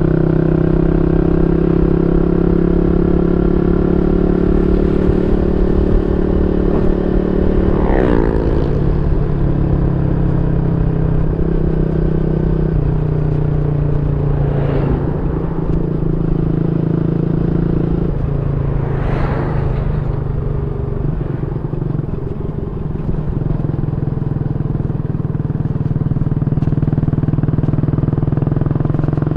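Yamaha Y15ZR's 150cc single-cylinder four-stroke engine, fitted with a YYPANG SD3 aftermarket exhaust, running at a steady note that shifts in pitch a few times. Three brief whooshes of vehicles passing cut across it, about a quarter, half and two-thirds of the way through.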